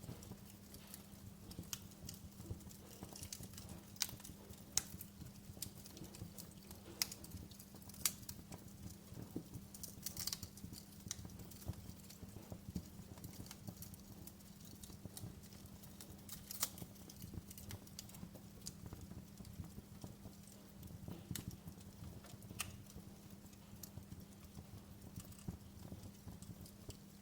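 Wood fire crackling in a fireplace: irregular sharp pops and snaps, a few louder than the rest, over a steady low hum.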